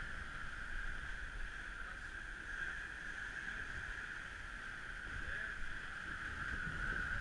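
Strong wind, 35 to 55 knots, rushing over a sailing catamaran, with a steady high hiss and an uneven low rumble of wind buffeting the microphone.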